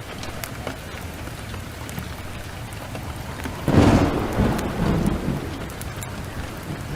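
Steady rain with scattered sharp ticks, broken about halfway through by a sudden thunderclap that rumbles on and fades over a couple of seconds.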